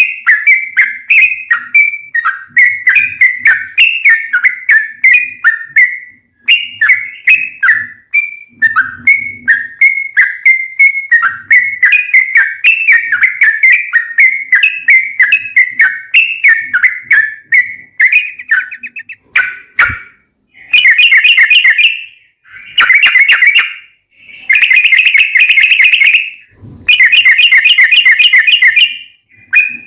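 Yellow-vented bulbul (trucukan) song: loud bubbly chattering phrases of quick whistled notes, then, about two-thirds of the way in, four long rapid rolling trills (the 'ropel') with short gaps between them.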